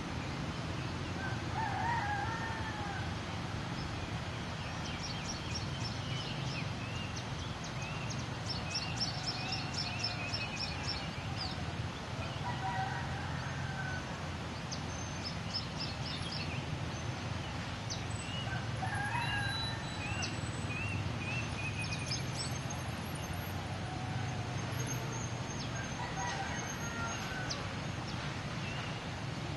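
A rooster crowing about four times, with small birds chirping between the crows over a steady low background.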